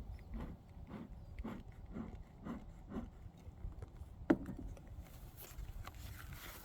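Soft footsteps, about two a second, then a single sharp knock about four seconds in, over a low rumble.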